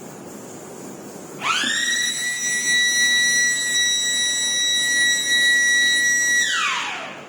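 A high machine whine from the furnace automation equipment that rises quickly in pitch about a second and a half in, holds one steady pitch for about five seconds, then falls away near the end.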